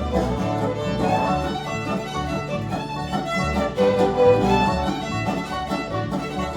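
Bluegrass band playing an instrumental break, a fiddle carrying the melody over strummed guitar and a pulsing bass line.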